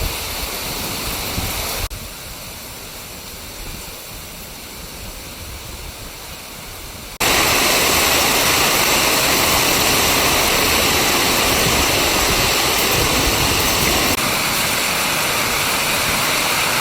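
Torrential rain pouring down, a dense steady hiss. It drops to a quieter stretch about 2 s in, then jumps back up, louder, about 7 s in.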